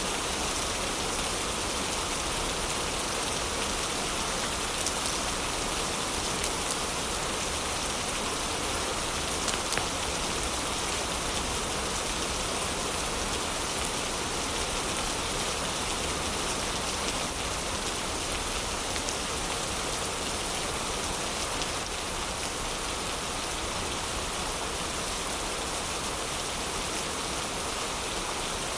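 Steady heavy rain, with a few faint crackles from a fireplace in the first part.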